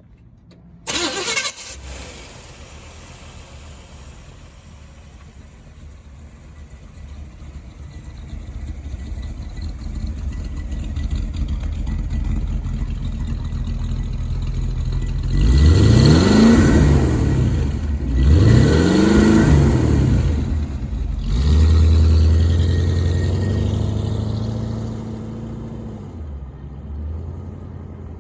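1957 Chevrolet Bel Air engine cranking and starting about a second in, then idling. It is revved twice, rising and falling in pitch each time, then runs on at a steady idle that fades near the end.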